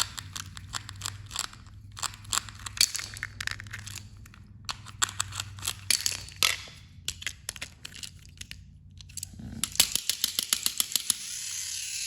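Irregular clicks and crinkly rustling as a battery-powered toy train engine is handled and its battery fitted, then near the end its small electric motor starts and whirs steadily, showing the engine works.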